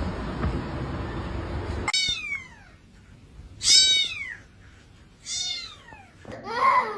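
A cat meowing: three high-pitched meows that fall in pitch, about a second and a half apart, then a fourth, lower meow near the end. Before them a steady background hiss cuts off suddenly about two seconds in.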